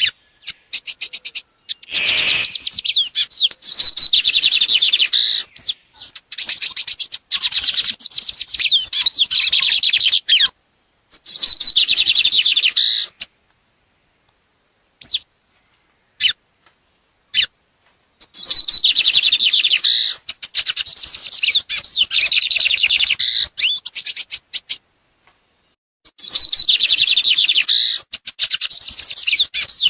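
A songbird singing long bouts of rapid, warbling song, each lasting several seconds, with short pauses between them. Near the middle the song stops for a few seconds, broken only by three or four brief single notes, then resumes.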